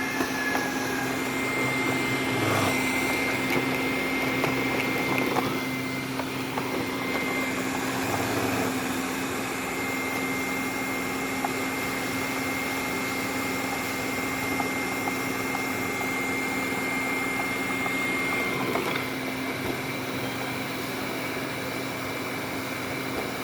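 Robot vacuum cleaner running: a steady suction-motor hum with a constant high whine that drops out about three-quarters of the way through, and a few soft knocks early on.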